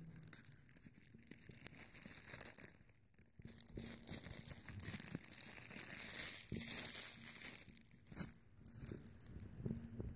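Plastic packaging crinkling and tearing as a Blu-ray is unwrapped and handled, in uneven rustling stretches. One sharp click near the end.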